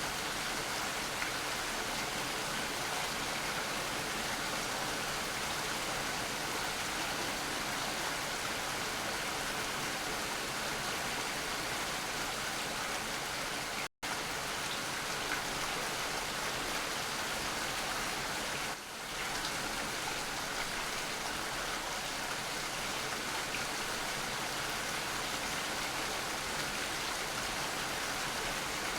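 Steady rain falling, an even, dense hiss of drops. It cuts out completely for an instant about halfway through, then resumes unchanged.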